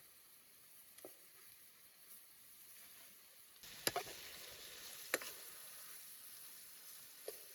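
Food sizzling in hot oil or fat over a fire, a steady hiss that grows louder partway through, with two sharp pops a little over a second apart.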